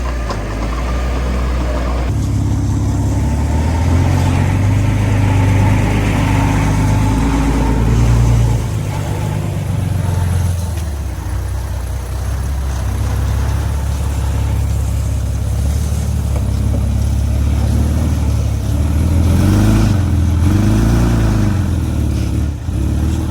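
Heavy diesel engine of earthmoving machinery running loudly, its pitch shifting as the load changes, with the engine revving up and down near the end.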